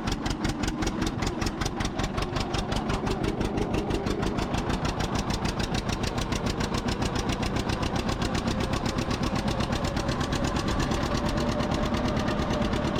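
Two-cylinder John Deere tractor engine running steadily, its exhaust popping in an even, rapid rhythm of several beats a second.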